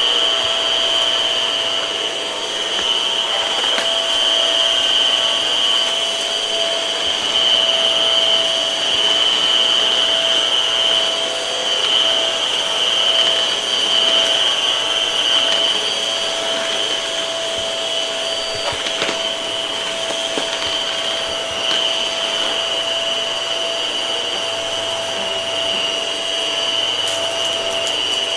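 Hart vacuum cleaner running steadily with a high whine, with a few faint clicks along the way.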